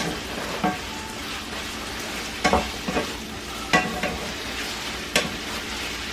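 Chicken chunks frying in oil and butter in a pan on high heat: a steady sizzle, with a few sharp clicks scattered through it.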